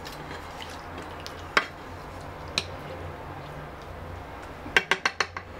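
Chicken livers frying in oil in a nonstick pan: a steady sizzle broken by sharp clicks, two single ones and then a quick run of about five near the end.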